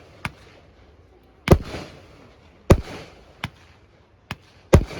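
Fireworks bursting: three loud booms about a second apart, each trailing off briefly, with a few smaller, sharper reports between them.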